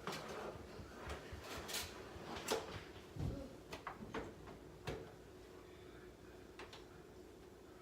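Farberware air fryer toaster oven being handled: a run of clicks and knocks from the pan, rack and door, with a dull thump about three seconds in, then quieter, over a faint steady hum.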